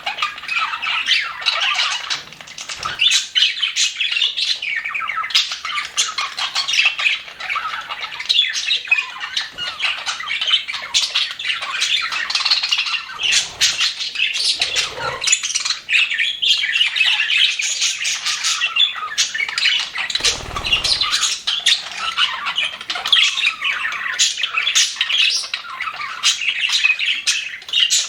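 A flock of budgerigars chattering, warbling and squawking together without pause, many short overlapping chirps and calls. A few low thumps or flutters are heard, near 3 s, around 14–15 s and about 20–21 s.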